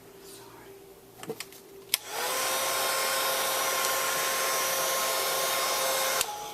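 Handheld hot-air blower drying wet paint: switched on with a click about two seconds in, its motor whine rising to a steady pitch under a loud rush of air, then cut off shortly before the end.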